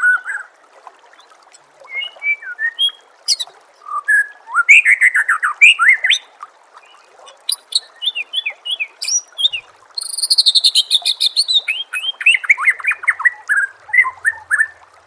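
White-rumped shama (murai batu) singing a varied run of short whistled phrases and slurred notes, breaking into a fast rattling trill about two-thirds of the way through, over a faint steady hiss.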